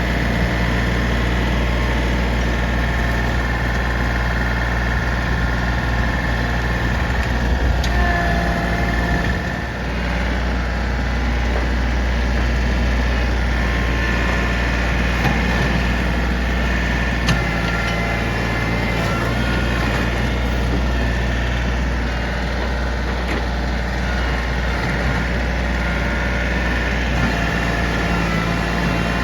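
Diesel engine of heavy equipment running steadily at a low, even speed, with a few faint knocks and a brief drop in loudness about nine seconds in.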